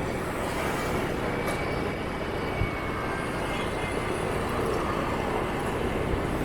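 Steady din of motorbike and scooter traffic heard while riding through city streets, with a faint high, steady whine running under it.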